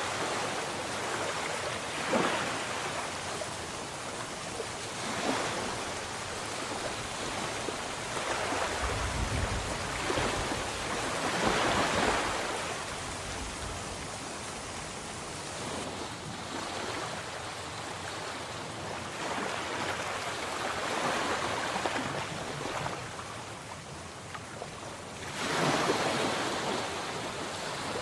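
Sea waves washing in and breaking, the noise swelling and falling every few seconds, loudest about twelve seconds in and again near the end. A short low rumble comes about nine seconds in.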